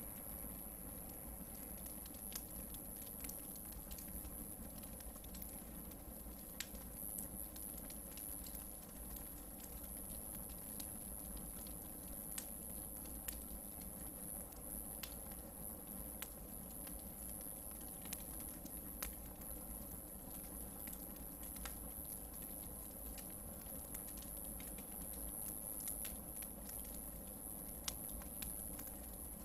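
Hardwood campfire burning, with scattered small crackles and pops from the logs at uneven intervals over a steady low rumble and a steady high hiss.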